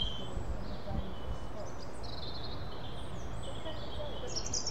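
Small birds singing, a run of high chirps and short trills, over a steady low rumble of background noise.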